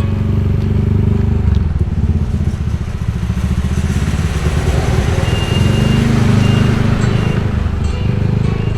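Motorcycle engine running as the bike is ridden slowly, easing off and then picking up again.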